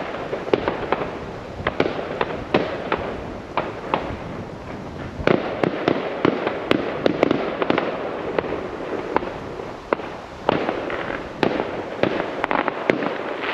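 Fireworks going off on all sides: a steady crackle with many sharp bangs and pops, in louder clusters about five and ten seconds in.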